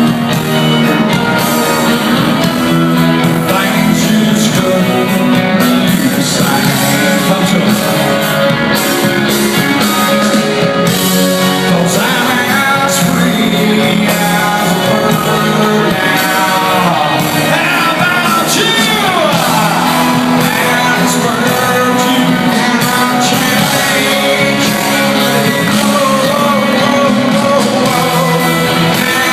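Rock music: a full band playing loud and steady, with lead notes that bend and slide in pitch.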